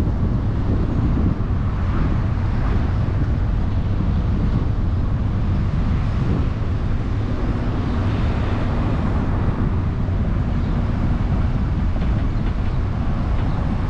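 Steady road and wind noise from a car driving on a highway, a constant low rumble with no breaks.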